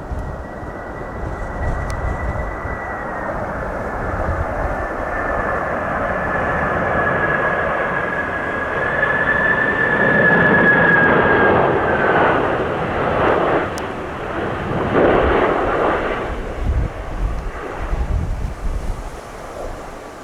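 Jet airliner on landing approach passing by, its engine whine high and steady, dipping slightly in pitch as it grows loudest about halfway through. Gusts of strong wind buffet the microphone in the second half.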